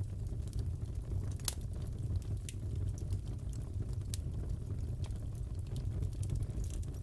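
Crackling fireplace: a steady low rumble of the burning fire with scattered sharp pops and crackles, the loudest about one and a half seconds in.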